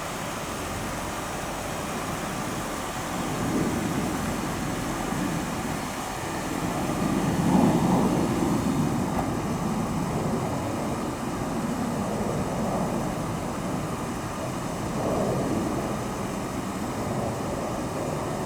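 1967 Lincoln Continental's 462 cubic-inch V8 running steadily, swelling louder a few times as the revs rise. The biggest rise comes about seven to eight seconds in.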